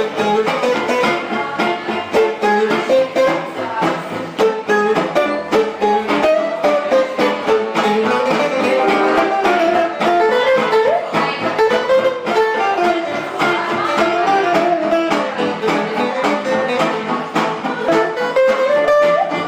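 Live band music led by guitars, with fast strummed and plucked chords under a sliding melody line.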